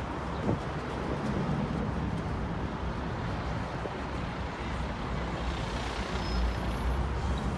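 Tour bus driving along a city street, heard from on board: a steady rumble of engine and road noise with passing traffic.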